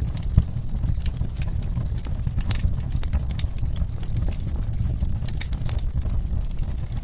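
Wood fire in a fireplace crackling, with frequent sharp pops, the loudest about half a second in, over a steady low rumble, mixed with the sound of falling rain.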